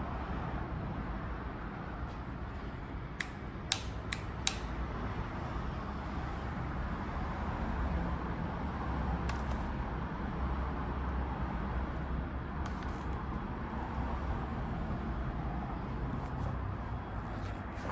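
Honda CB400SS's single-cylinder engine idling steadily, with a few sharp clicks between about three and four and a half seconds in.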